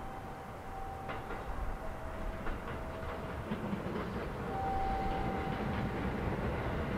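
JR Shikoku 7200 and 7000 series electric train approaching, its rumble growing steadily louder. The wheels click over the rail joints from about a second to three and a half seconds in, and a thin steady tone comes and goes.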